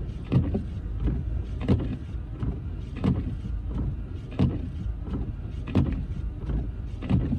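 Car windshield wipers sweeping at an even pace, a stroke about every second and a half, over the steady low rumble of the car driving.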